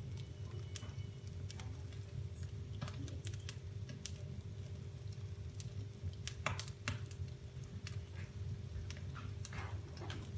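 Wood fire in a fireplace crackling: irregular sharp snaps and pops, a few louder ones about six and a half seconds in, over a steady low hum.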